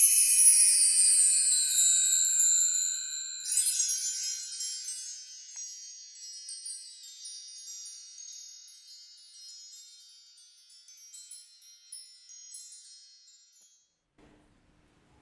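Chimes ringing: a run of high metallic notes sweeping downward, a second run struck about three and a half seconds in, then the ringing slowly dies away.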